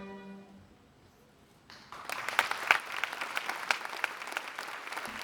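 A held final note of bowed strings fades out, and after about a second of quiet an audience starts applauding, with many sharp individual claps.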